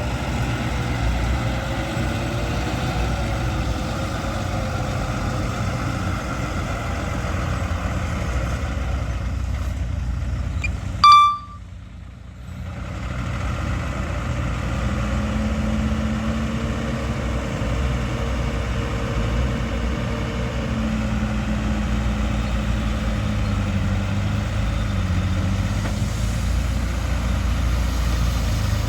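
Heavy diesel earthmoving machinery running steadily with a low engine hum. About eleven seconds in there is a short sharp high tone, then the sound drops out for a second or so before the engine noise comes back.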